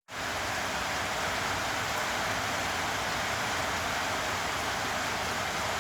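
Steady rain falling in a rainstorm, an even, unbroken hiss.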